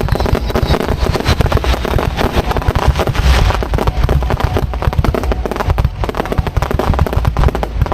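Fireworks display going off close by in a dense, continuous barrage: many rapid, overlapping bangs over deep booming.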